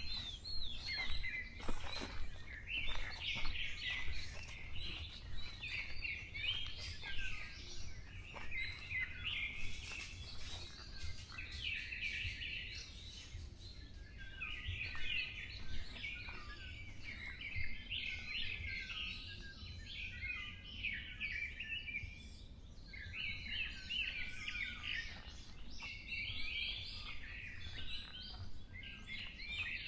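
Forest songbirds singing: a steady run of high chirping song phrases, each about a second long and coming one after another, over a low steady rumble.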